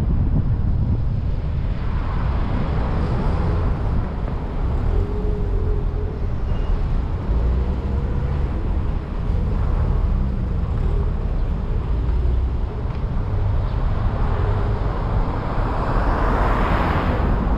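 Road traffic with cars passing, a steady low rumble with wind buffeting the microphone; a vehicle swells past about two seconds in and another near the end.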